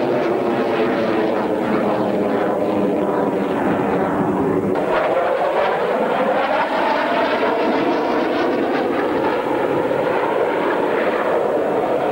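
Dassault Mirage fighter jet flying by: a loud, continuous jet engine roar whose tone sweeps down and then back up about halfway through as the plane passes.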